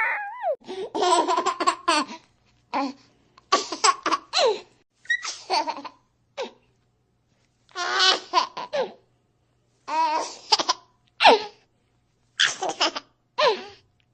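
Baby sound effects: a string of short baby laughs and giggles, about ten separate bursts with dead silence between them.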